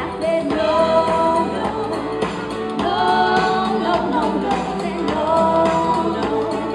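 A woman singing a song live, holding long notes with a wavering pitch over guitar-led band accompaniment.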